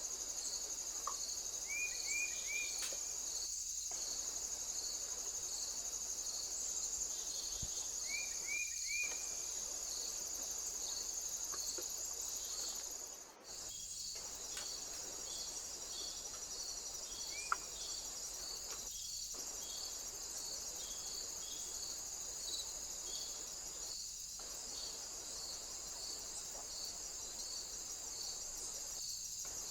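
Insects chorusing, cricket-like: a steady high-pitched trill with a pulsed chirping about twice a second over it. The chorus cuts out for a moment about 13 seconds in, and a few faint short chirps come through early on.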